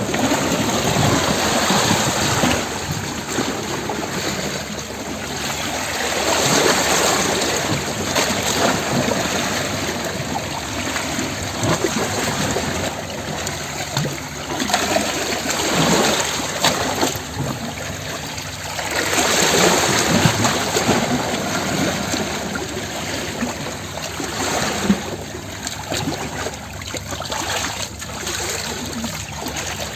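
Sea waves washing against rocks, a continuous wash of water that swells and ebbs, with stronger surges about a quarter of the way in and again past the middle.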